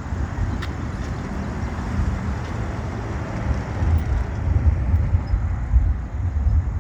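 Distant thunder rolling: a continuous low rumble that swells and surges about four seconds in.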